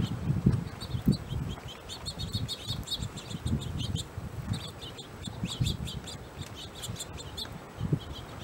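Small birds chirping at a feeder: many short, high chirps overlapping throughout, over the low, gusty rumble of wind on the microphone.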